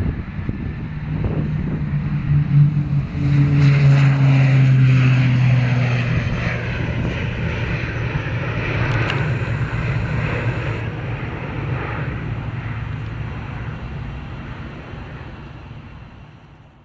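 Military aircraft flying past: a loud engine drone with a low steady tone that swells to its loudest about four seconds in, drops slightly in pitch as the aircraft passes, then slowly fades away.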